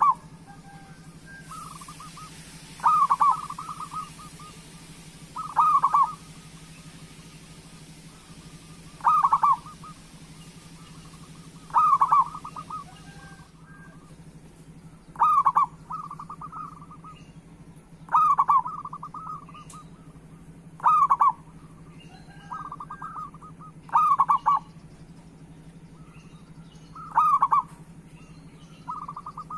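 Zebra dove (perkutut) cooing: a short coo phrase repeated about every three seconds, some phrases followed by a softer trailing part, over a faint steady hum.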